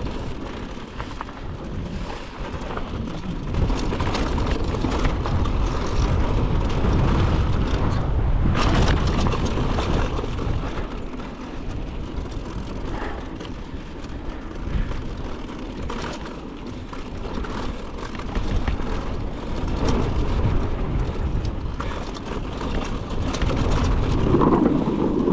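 Mountain bike descending a dirt jump trail at speed: wind rushing over the microphone and tyres rumbling on dirt, with scattered clicks and rattles from the bike.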